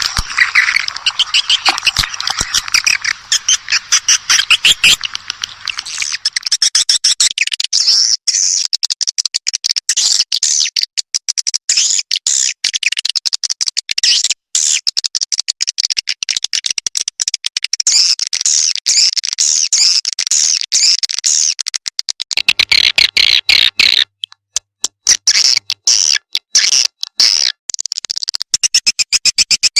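Swiftlet lure recording: dense, rapid, high twittering chirps of many swiftlets, cut by several sudden short breaks where the looped recording is spliced.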